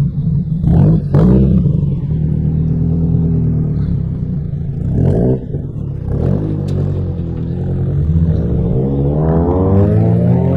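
Car engines revving as they pull away: short throttle blips about a second in and again around five to six seconds, then a long rising rev near the end.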